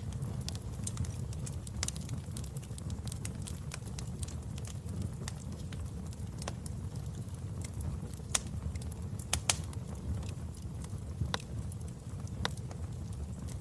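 Wood fire in a fireplace crackling: irregular sharp pops over a steady low rumble, with the loudest pops a little past the middle.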